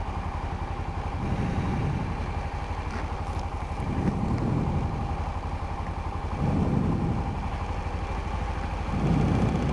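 Honda Rincon 650 quad's single-cylinder four-stroke engine running as it is ridden at low speed. Its sound swells four times, about every two and a half seconds.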